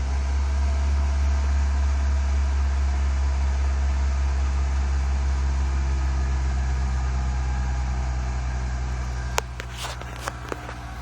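Volkswagen Jetta 2.0 AEG four-cylinder engine idling with a steady low drone. The idle is rough, with a misfire that the owner believes comes from a vacuum leak. Near the end it drops quieter and a few sharp clicks are heard.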